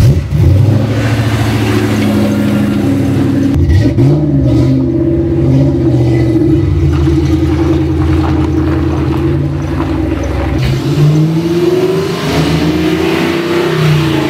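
Ford Mustang SN95 engine running and revving as the car drives off. Its pitch rises about four seconds in and again near the end.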